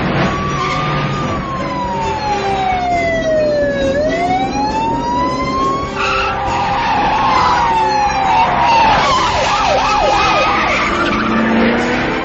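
Car-chase sound effects: a car engine revs with its pitch falling slowly and then climbing again, and later tyres squeal in several short wavering screeches.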